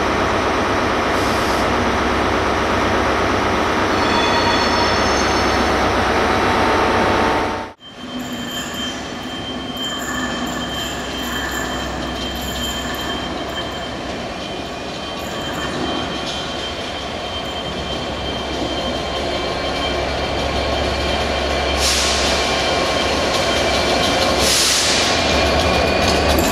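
Train sounds in two parts. First a train's engine runs steadily; then, after an abrupt cut about eight seconds in, comes a different train with a steady rumble and thin high tones that rise in pitch near the end.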